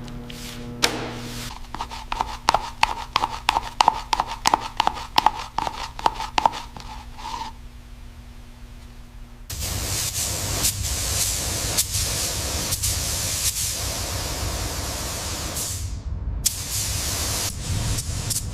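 A rapid run of sharp metallic clicks and knocks, then a loud steady spraying hiss that breaks off briefly near the end.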